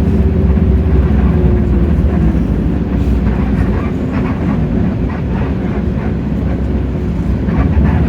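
Hino J08E-VN inline-six turbodiesel of a Hino RK8JRVA-KJF city bus running under way, heard from inside the cabin as a steady low rumble with light rattling. A faint whine falls slightly in pitch over the first couple of seconds.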